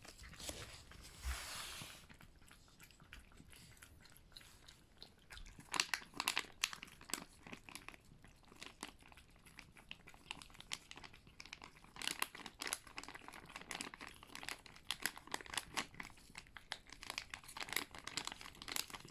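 Cats eating, with many rapid small crunches and chewing clicks. A brief soft rustle comes about a second in.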